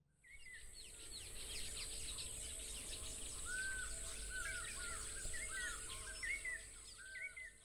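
Several birds chirping and twittering over a steady high hiss, cutting in and out abruptly.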